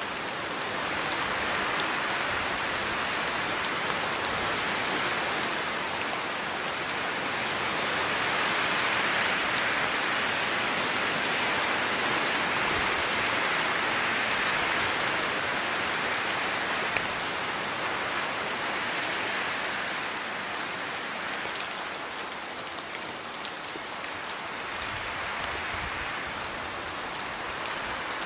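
Steady rain falling, heavier through the middle and easing near the end, with a few sharp drip ticks.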